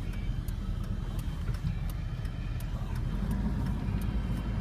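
Car cabin noise while driving slowly: a steady low engine and road rumble, with a faint regular ticking about three times a second.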